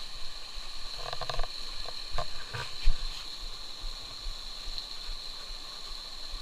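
Running stream water under a steady high-pitched insect drone, with a few short knocks and one louder thump about three seconds in.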